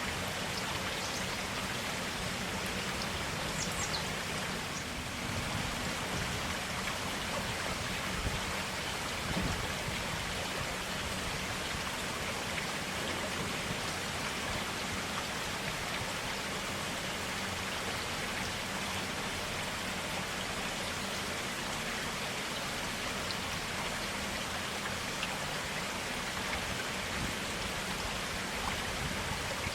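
Clear water running steadily, as a forest stream, in an even unbroken rush.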